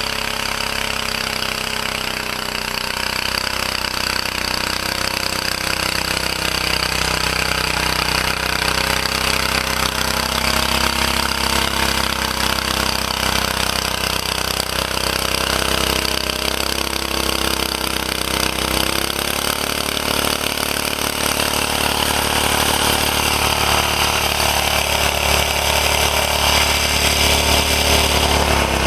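1949 Bready walk-behind tractor's engine running steadily while plowing heavy wet snow, its note changing about two-thirds of the way in.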